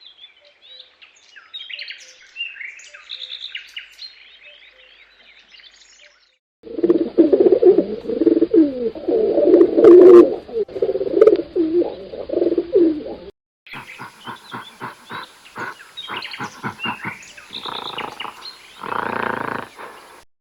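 Animal calls in three back-to-back clips: birds chirping at first, then about seven seconds in a louder, lower, wavering call, and from about 14 seconds a rapid run of evenly repeated calls.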